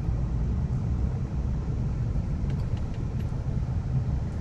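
Steady low rumble of a motor vehicle running, heard from inside its cabin.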